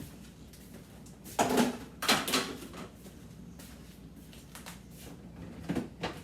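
Food containers and fridge shelves or drawers being handled: two loud clattering knocks in quick succession about a second and a half in, and a smaller knock near the end.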